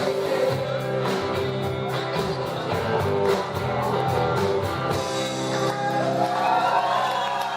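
Rock band playing guitar with a steady drum beat. The beat stops about five seconds in, leaving sustained notes ringing with slow bends in pitch, as the song comes to its end.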